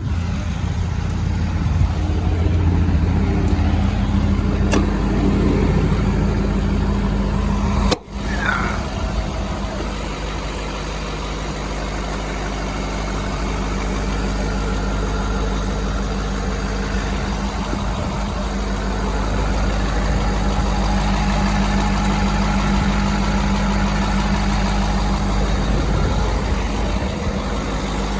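Ford 6.7L Powerstroke V8 turbo-diesel idling steadily, with a short dropout about eight seconds in.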